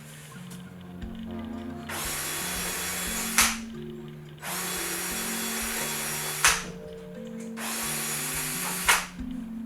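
A handheld power tool runs in three bursts of a couple of seconds each, with a sharp click in each burst, while deburring aircraft wing parts. Background music with steady low notes plays underneath.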